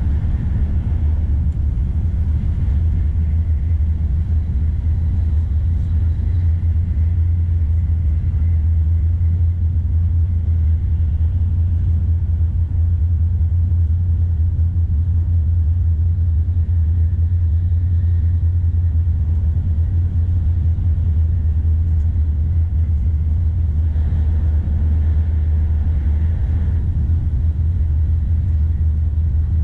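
Steady low rumble of a Shinkansen high-speed train running at speed, heard inside the passenger car.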